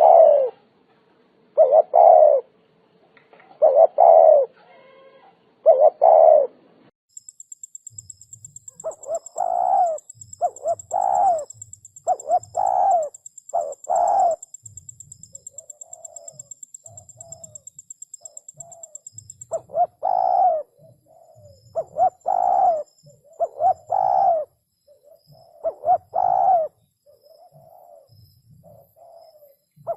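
Spotted dove cooing: repeated phrases of loud coos, with fainter coos in the pauses between them.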